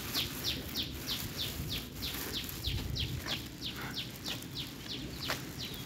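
A bird calling a long, even run of short high notes, each one falling in pitch, about three a second. A low rumble from walking and handling the phone lies underneath.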